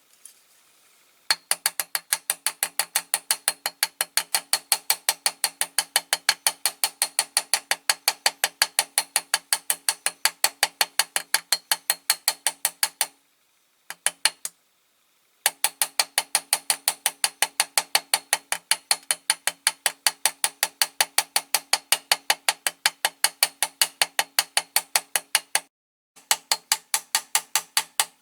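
Small hammer tapping steadily on the end of a die-cast model's steel axle, peening it over to hold the wheel on: about four sharp metallic strikes a second, each with a short ring, in runs with two or three brief pauses.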